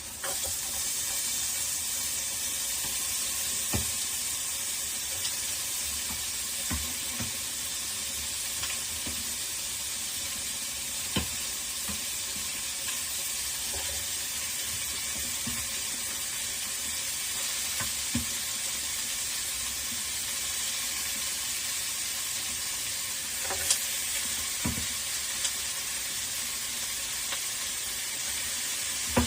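Food sizzling steadily as it fries in a pan, with a spoon now and then knocking against the pan as it is stirred.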